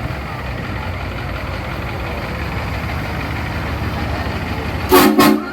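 Motor vehicle engine running steadily at low revs close by, with a brief loud tone about five seconds in.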